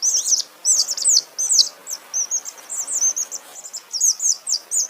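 Domestic chicks peeping: many short, high-pitched chirps several times a second, with pitch sweeps through each call.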